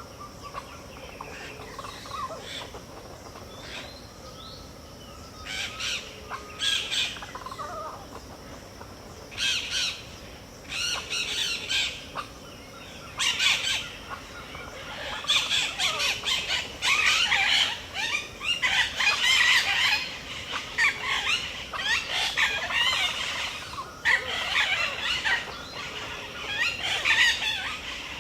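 Wild birds in a dawn chorus. A few scattered calls at first, then loud bursts of calls from about five seconds in, building about halfway through into a dense chorus of many birds calling over one another.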